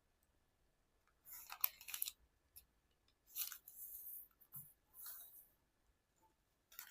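Faint rustling and crinkling of a square of origami paper as a corner is folded to the centre and creased, in several short bursts with a small knock in between.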